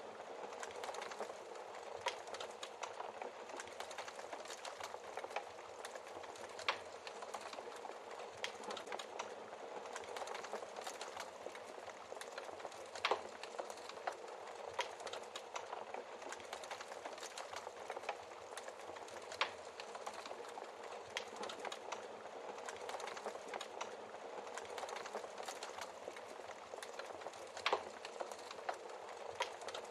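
Wood fire crackling: a steady soft hiss with many small crackles and a handful of sharper log pops scattered through it.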